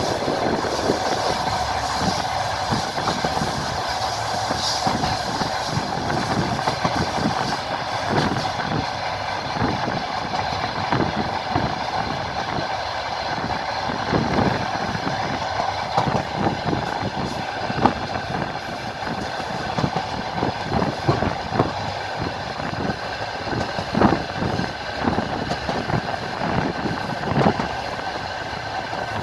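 Passenger train carriage in motion: wheels clacking over rail joints in irregular knocks above a steady rolling rumble.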